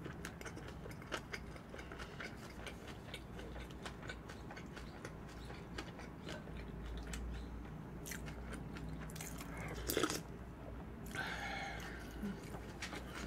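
Chewing a mouthful of flying fish roe bibimbap, with many small crisp clicks as the roe is bitten through. A brief louder sound comes about ten seconds in.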